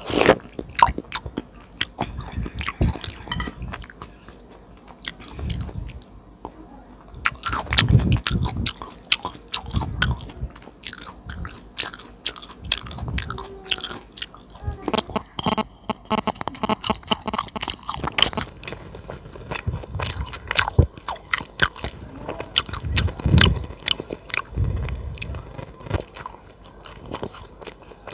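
Close-miked chewing and biting of food, with many sharp, irregular wet clicks and smacks and a few louder bites.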